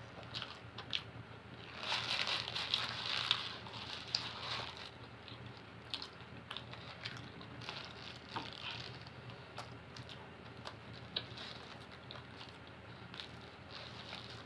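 Close-up chewing of a mouthful of falafel wrap, with many short wet mouth clicks, and the paper wrapper rustling in the hands. There is a louder spell about two seconds in.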